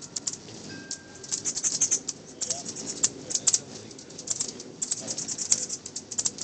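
Small birds chirping: quick, irregular clusters of sharp, high chips, with a short steady whistled note about a second in.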